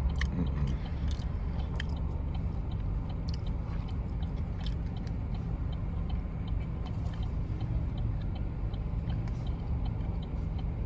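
Steady low road rumble inside a moving car's cabin, with light scattered clicks.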